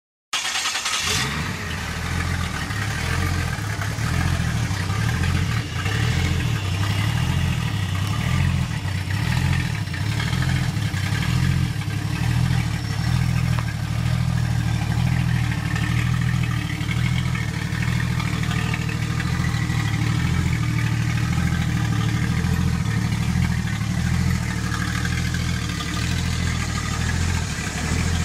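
Turbocharged Nissan L28 straight-six in a 280Z drag car idling steadily with a low, pulsing rumble.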